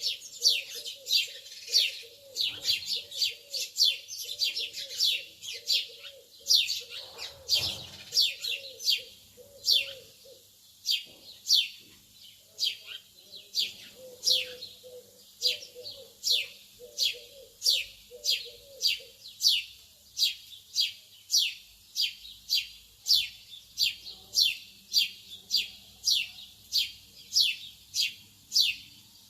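Lovebirds chirping: short, falling, high-pitched chirps repeated steadily at about two a second. A softer, lower pulsing call runs under them for much of the first two-thirds, and there is one dull thump about seven seconds in.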